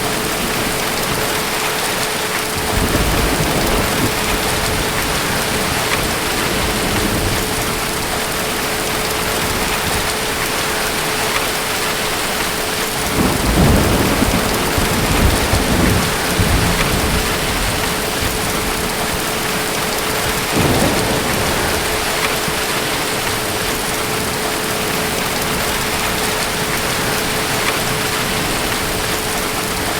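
Steady heavy rain with rolls of distant thunder: a low rumble about two and a half seconds in, a longer, louder rumbling from about thirteen to seventeen seconds, and a shorter roll about twenty-one seconds in. A faint steady hum sits under the rain.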